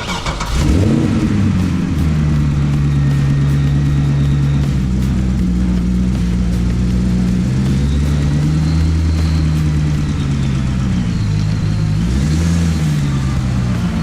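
LS7 V8 engine of a custom C2 Corvette running steadily. The engine note comes up just under a second in and rises and falls briefly in a short rev near the end.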